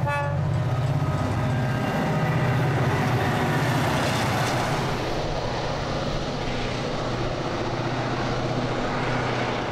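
Diesel freight locomotives passing under power at close range, a steady engine drone, with the rumble and rush of container wagons rolling by on the rails. A horn blast ends right at the start.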